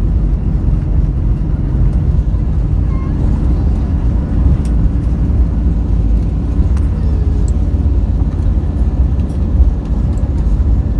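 Steady, loud low rumble of a vehicle in motion, heard from inside it, with a few faint clicks.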